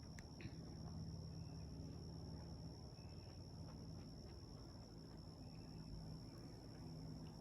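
Faint outdoor ambience by a lake: a steady high insect-like tone over a low steady hum, with a few faint short bird chirps.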